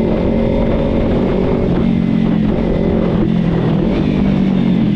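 Kawasaki Z300's parallel-twin engine running at a fairly steady speed while riding, with small shifts in pitch about two seconds in and near the end.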